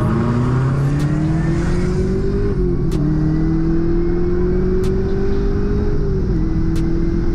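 Car engine accelerating hard under full throttle, its pitch climbing through the revs and dropping sharply twice as it shifts up a gear, in a street race against a Cadillac CTS-V.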